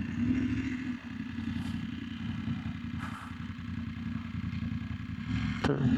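BMW F900GS parallel-twin motorcycle engine running steadily at low speed, heard from on the bike.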